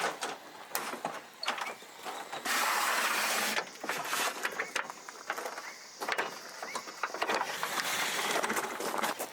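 Handling noises: scattered clicks and knocks, with a rush of noise lasting about a second starting about two and a half seconds in.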